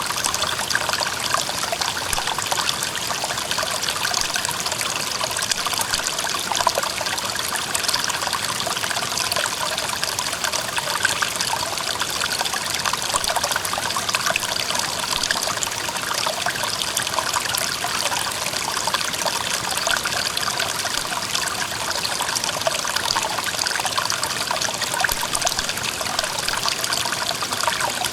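Clear mountain stream running over rocks: a steady trickling rush of water with small splashes throughout.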